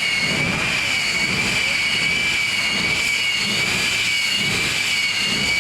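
Jet-powered truck's jet engine running at a steady high, even whine over a loud rushing noise.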